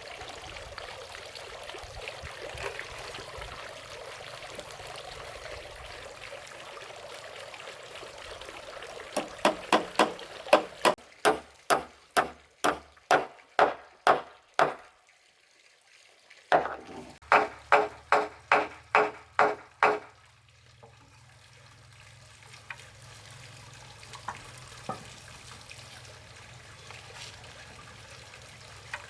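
A steady rushing noise, then two runs of sharp, evenly spaced knocks, about three a second, with a short pause between them.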